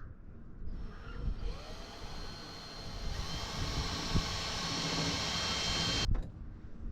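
A small electric motor whirring steadily for about four and a half seconds, growing slowly louder, then stopping abruptly.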